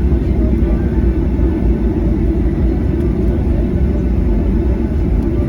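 Steady low rumble inside the cabin of a Boeing 737-800 airliner: engine and airflow noise with no distinct events.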